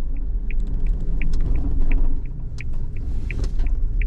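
Cabin of a Suzuki Jimny on the move: low road and engine rumble, with a turn-signal indicator ticking evenly about three times a second.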